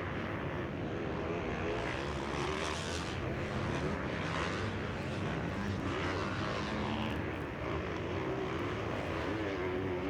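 Motocross bike engines racing around the track, a steady blend of engine noise whose pitch keeps rising and falling as the riders rev and shift.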